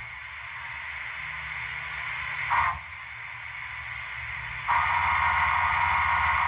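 Paragon 3 sound decoder in an HO-scale SP AC-5 cab forward playing the grade-crossing whistle signal through its small onboard speaker. A long blast cuts off at the start, a short blast comes about two and a half seconds in, and a final long blast near the end. The locomotive's steady background sounds run between the blasts.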